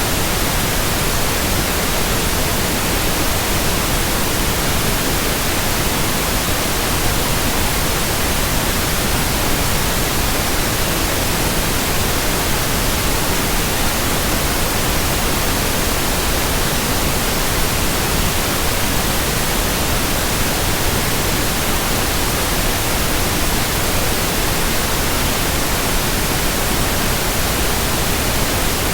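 Steady, even white noise: a constant hiss across all pitches, with no hum, rhythm or change in level.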